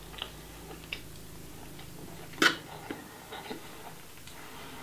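Chewing a crunchy hot Cheetos-crusted sushi roll: scattered soft crunches and mouth clicks, with one louder crunch about halfway through.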